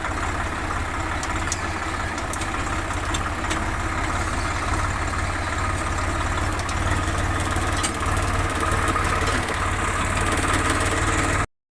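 Tractor's diesel engine running steadily with a low, fast-pulsing rumble; the sound cuts off suddenly near the end.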